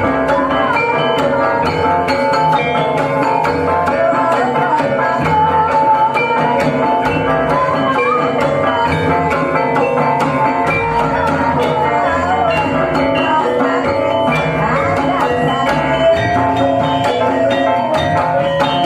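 Ebeg accompaniment music: a Javanese gamelan ensemble playing at a steady pace, with drum strokes running throughout under a wavering melody line.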